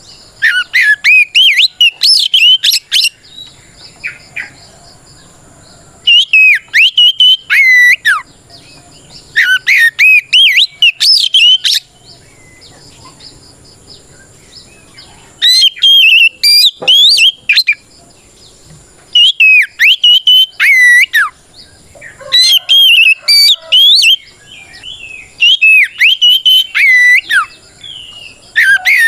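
Oriental magpie-robin (kacer) singing loud, clear whistled phrases full of rapid up-and-down slurs, in bursts of one to two seconds with short pauses between. This is the challenging 'ngeplong' song that calls out a rival male.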